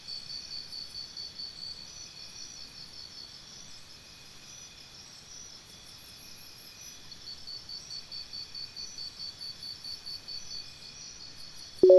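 Crickets chirping in a steady, rapid pulsing trill. A short electronic beep sounds at the very end.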